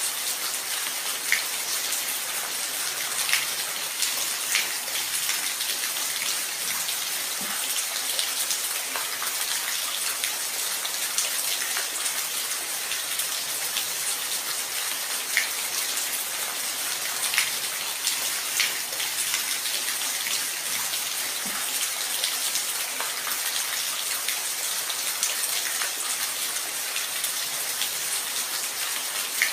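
Steady rain falling, an even hiss with scattered close, individual drop taps.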